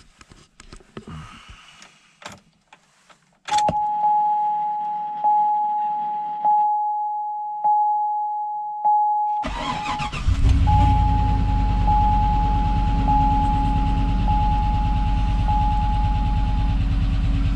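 Chevrolet Trailblazer SS's 6.0-litre LS2 V8 cold-started after sitting overnight in sub-zero cold. After a few key clicks the dash warning chime dings about once a second with the ignition on. About ten seconds in, the engine cranks briefly, catches, and settles into a steady idle while the chime keeps sounding.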